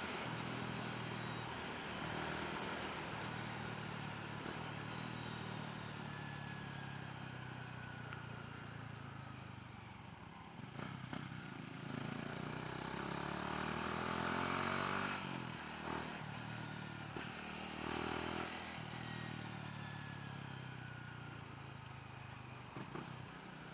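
Motorcycle engine running through changing speeds, its pitch rising and falling as the rider accelerates and eases off. Steady wind and road noise lies underneath, heard through a helmet chin-mount mic with the visor closed.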